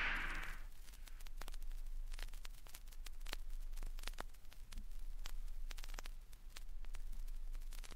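Vinyl record surface noise in the silent groove between tracks: scattered crackles and clicks over a steady low hum.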